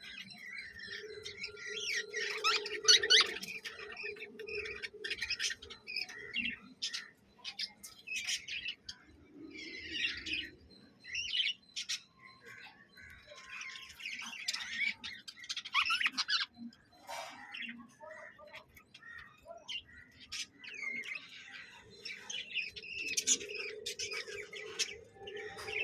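A flock of lovebirds chattering, with overlapping shrill chirps and squawks in uneven bursts.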